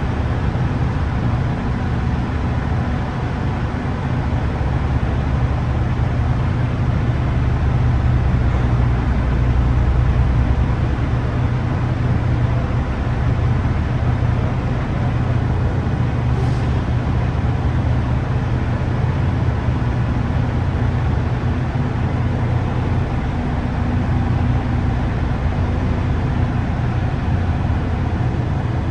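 Semi truck's diesel engine running steadily with a deep low rumble, and a brief faint hiss just past halfway.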